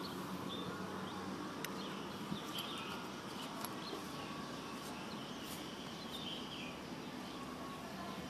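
Small birds chirping faintly and repeatedly over a steady outdoor background hum, with a few light clicks.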